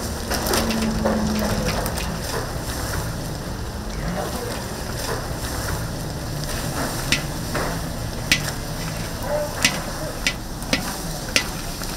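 Chicken for dakgangjeong frying and being stirred, with a steady sizzle. Several sharp clicks sound in the second half.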